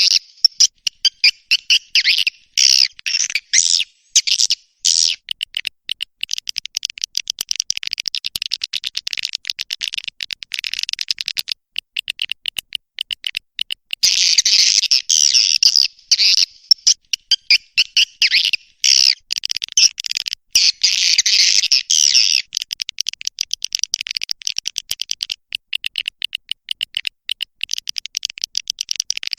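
Edible-nest swiftlet calls: rapid, dense chirping and twittering, a recording used to lure swiftlets to a nesting house. The twittering is thickest and loudest about halfway through and again a few seconds later.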